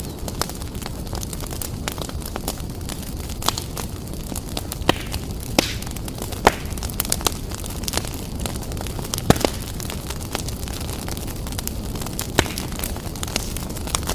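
Wood fire blazing in a fireplace: a steady low rumble of the flames with scattered sharp crackles and pops, about one every second or so.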